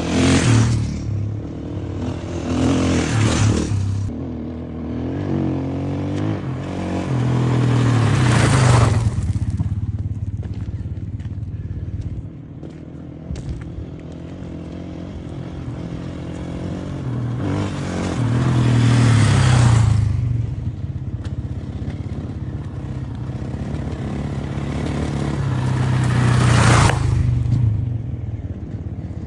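Motocross bike engines running and revving, swelling up and falling back several times, loudest near the start, about 8 seconds in, about 19 seconds in and near the end.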